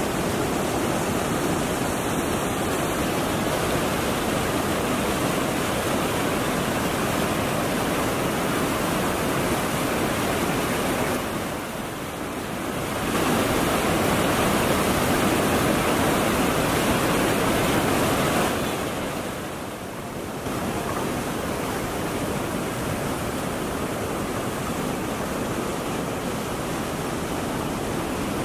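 Waterfall: a steady rush of falling water that dips briefly twice, about a third and two thirds of the way through, and is louder in between.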